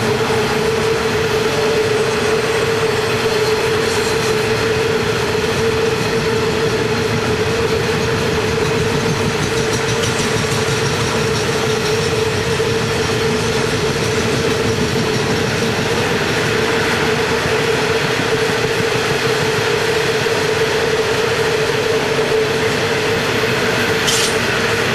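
Loaded ore wagons of a very long heavy-haul train rolling past on a downgrade with their brakes applied. It is a steady rolling rumble and wheel clatter with one steady tone held beneath it, and a couple of sharp clicks near the end.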